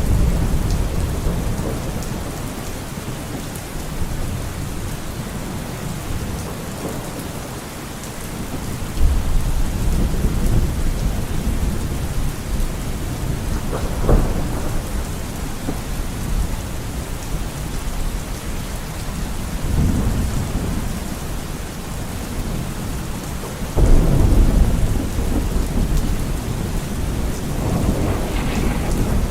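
Steady rain with rolling thunder: a constant hiss of rainfall under several low thunder rumbles that swell and fade, the strongest about a third of the way in and again about four-fifths through.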